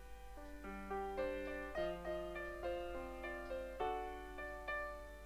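Soft background piano music, single notes and chords played at an unhurried pace.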